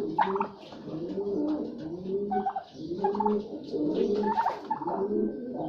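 A flock of domestic turkeys and other birds calling together. A low cooing repeats about once a second, with shorter higher calls and chirps over it.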